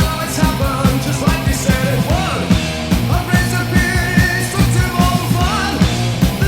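New Wave of British Heavy Metal song: electric guitar, bass and drums at a steady driving beat, with a wavering lead melody over them.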